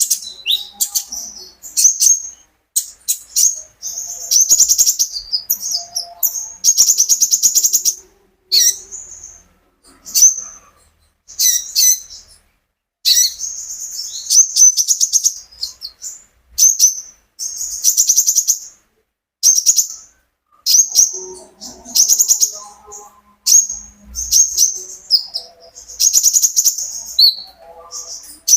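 A captive konin bird singing loudly in short, fast, chattering phrases of about a second each. The phrases are high-pitched and buzzy, made of rapid trilled notes, and come one after another with brief pauses between them.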